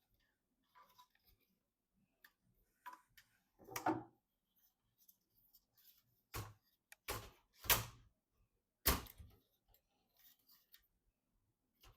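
Handling noise from computer parts being fitted: a series of light knocks and clicks, with five louder ones close together in the middle.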